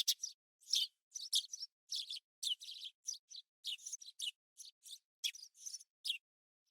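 Sparrow chirping: a quick run of short, high chirps, about two or three a second, that stops shortly before the end.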